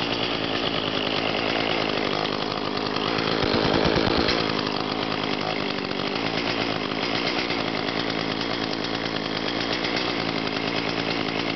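Echo CS-400 two-stroke chainsaw running after a cold start. The engine note holds steady and gets louder for a moment about four seconds in.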